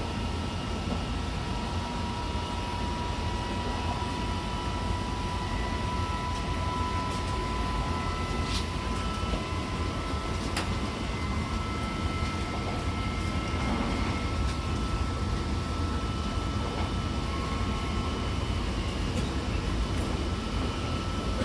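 Odakyu 70000 series GSE electric train running steadily at speed, heard on board: a continuous low rumble of wheels on track, with a faint steady electric whine from its full-SiC VVVF inverter and traction motors. A couple of faint clicks occur near the middle.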